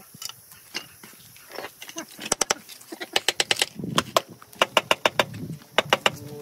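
Hard tools clinking and tapping on stone during stone cladding work: a run of sharp, irregular clicks that comes quicker and denser from about two seconds in.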